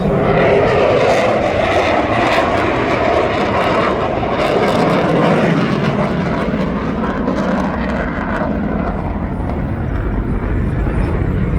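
An aircraft flying past at an airshow, its engine noise a loud, steady rushing sound that thins out a little after about six seconds.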